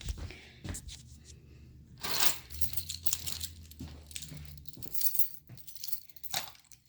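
Handling noise: rustling and scattered small clicks and clinks of things being picked up and hung, with a louder rustle about two seconds in.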